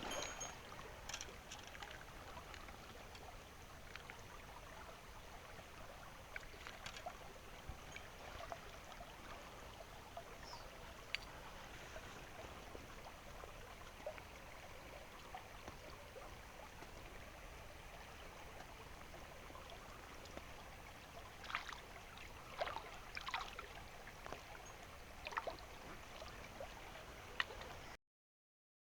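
Small mountain stream running with a faint, steady rush of water, with scattered small clicks and taps, several close together near the end; the sound cuts off suddenly just before the end.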